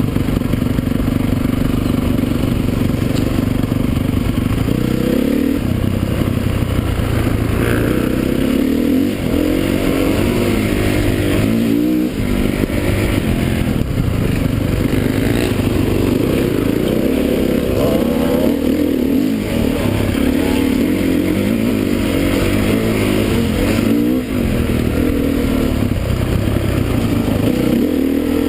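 Motocross motorcycle engines running hard, their pitch rising and falling over and over as the throttle is opened and closed.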